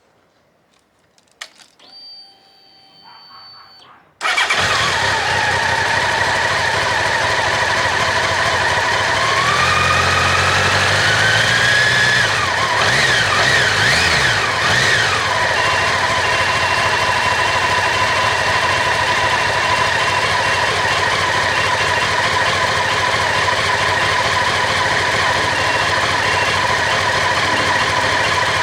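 Honda CB1100SF X11's inline-four engine started about four seconds in and left idling, its pitch climbing briefly before settling. A steady high squeal runs over the engine sound: the abnormal noise that the owner traces to the water pump.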